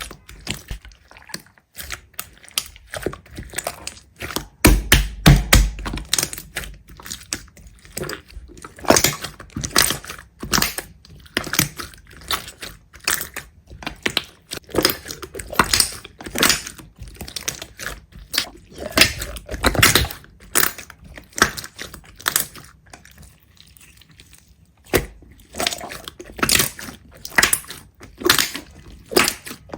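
Irregular crisp crunching and crackling, several sharp crunches a second, with a heavier thud about five seconds in and a short lull a little past the middle.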